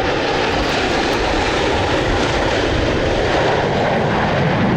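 Airplane engine noise: a loud, steady rush of aircraft engines.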